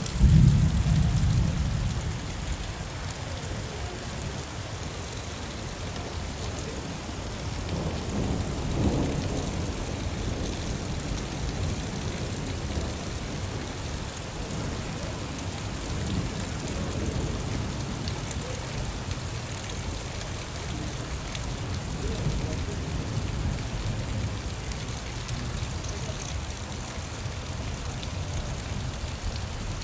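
Steady rain with thunder: a loud low rumble right at the start that dies away over about two seconds, and softer rumbles about nine seconds in and again later.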